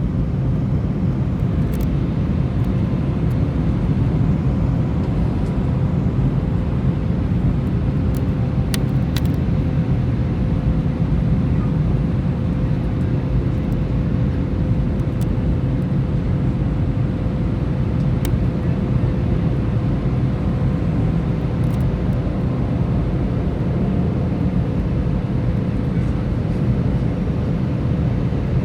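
Airbus A319 airliner's engines and airflow: a steady rumble with a constant hum that neither rises nor falls.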